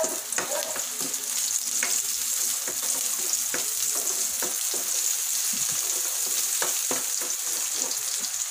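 Sliced onion, garlic and ginger sizzling in hot oil in a wok, with a steady hiss, while they are stirred: a spatula scrapes and taps against the pan many times.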